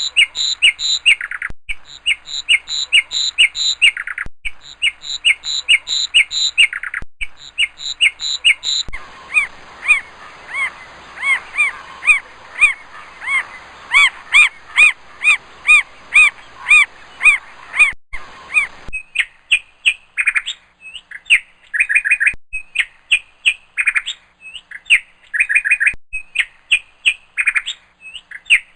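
Three different birds' calls in turn, each a run of short repeated chirps: a steady two-note chirping at first, then from about 9 s in quicker chirps over a background hiss, then from about 19 s in a different, clustered chirping.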